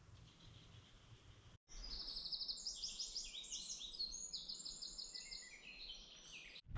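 Several songbirds singing over one another in quick runs of high chirping notes, starting about two seconds in after a stretch of faint background hiss.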